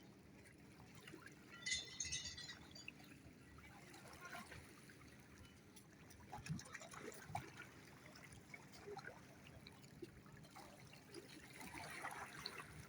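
Faint lake water lapping and trickling, with small scattered ticks and a brief high-pitched burst about two seconds in.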